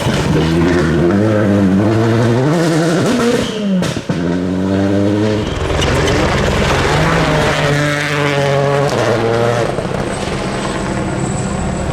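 A rally car's engine being driven hard on a stage: the revs climb and drop repeatedly through gear changes and lifts. There is a brief sharp break in the sound about four seconds in.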